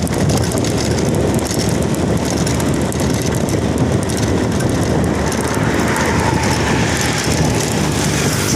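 Heavy road vehicle running close by: a steady, loud engine and tyre rumble.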